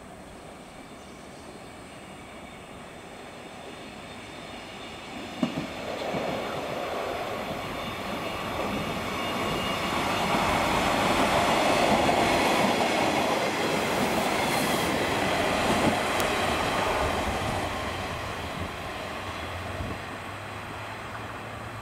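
Two-car diesel railcar train (KiKuHa 32 + KiRo 185) passing close by: it grows louder over about ten seconds, is loudest around the middle, then fades as it runs away. A sharp click sounds about five seconds in.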